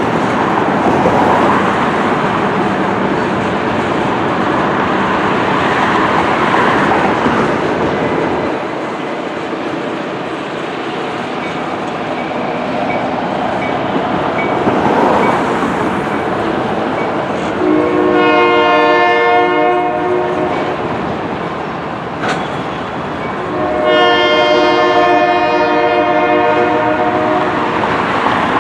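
Freight cars rolling past, with steady steel-wheel noise and clickety-clack over the rail joints. A locomotive air horn sounds two long blasts. The first comes about 18 seconds in and lasts two or three seconds. The second starts about 24 seconds in and is still sounding at the end. A single sharp click comes shortly before the second blast.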